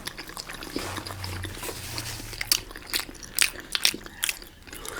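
Close-up eating of momo dumplings: chewing and biting, heard as an irregular run of sharp mouth clicks.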